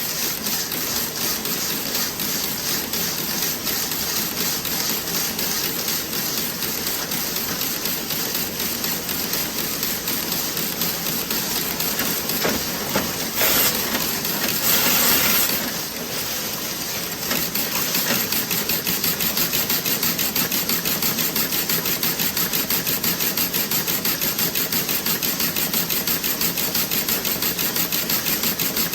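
Toe-sock knitting machine running, a fast, even mechanical clicking and rattling. About halfway through a loud hiss cuts in for a couple of seconds, and after it the clatter settles into a slightly louder, more regular beat.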